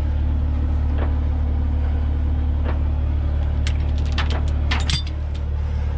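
Heavy equipment engine idling with a steady low drone, with a few light clicks and knocks about four to five seconds in.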